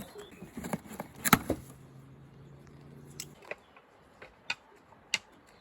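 Wooden beehive super and its frames being handled, giving a string of sharp knocks and clicks, the loudest about a second in. A low steady hum runs for about a second and a half in the middle.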